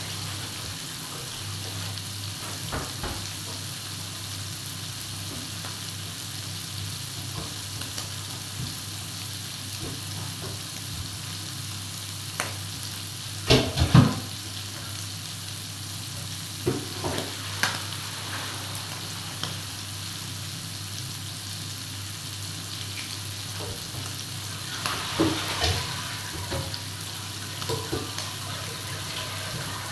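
Garlic and seafood frying in oil in an electric pan: a steady sizzle, broken by a few short sharp sounds, the loudest about fourteen seconds in.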